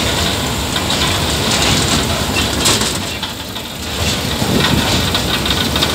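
Running noise of a moving train: a steady rumble and rattle of the wooden carriages and their wheels on the track, briefly quieter about halfway through.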